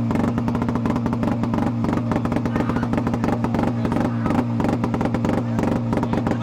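Car engine held on a two-step launch-control rev limiter: a steady high-rpm note chopped by rapid popping crackles.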